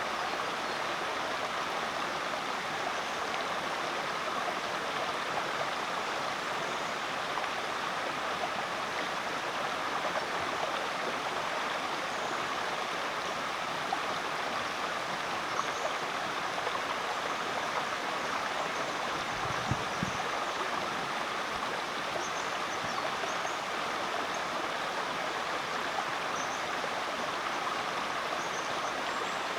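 Rainforest creek water flowing steadily, an even rushing sound.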